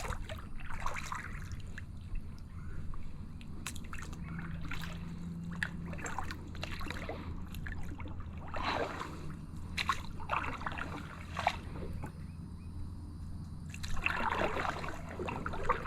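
Kayak paddle strokes in calm water: the blades swish in and out, and water trickles and drips off them at each stroke, with a few sharp knocks between strokes.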